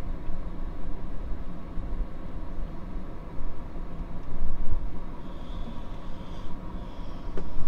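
Low steady rumble of a stopped vehicle's engine idling, heard from inside the cabin, with a faint steady hum above it.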